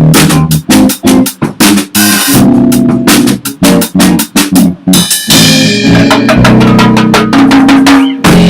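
Band of drum kit, bass guitar and guitar playing loudly, the drums most prominent with rapid kick and snare hits. About five seconds in, the hits give way to a held, ringing chord over sustained bass notes.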